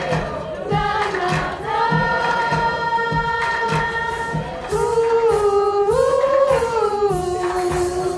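Voices singing long held notes that step up and down a few times, over a steady low beat of about two pulses a second.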